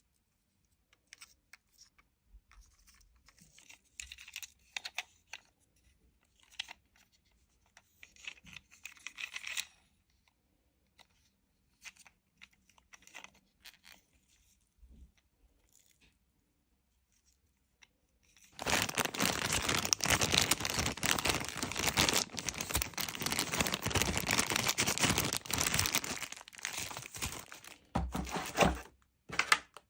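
Toy packaging being handled and torn open: scattered faint crinkles and clicks at first, then about eight seconds of loud continuous tearing and ripping past the middle, with a few short rips near the end.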